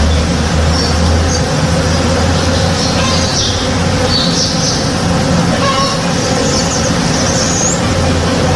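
Many honey bees buzzing as they forage in a flowering tree: a dense, steady hum with a few short high chirps over it.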